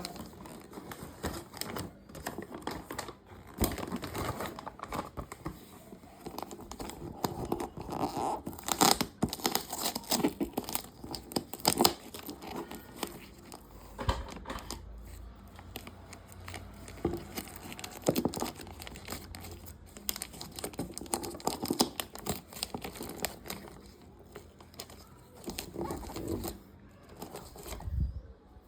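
Packaging being torn open and crumpled by hand while a toy RC car is unboxed: irregular crinkling and tearing throughout, with the loudest sharp rips about eight to twelve seconds in.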